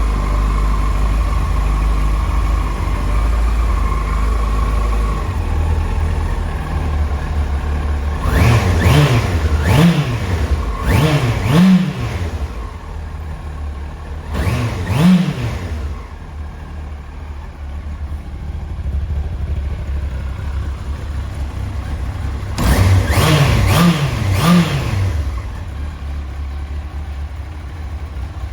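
1998 Yamaha R1's 998 cc inline-four engine idling on its original exhaust, revved in quick throttle blips that rise and fall back to idle: a few in a row about eight seconds in, one near the middle, and three close together late on. It runs smoothly, described as really sweet.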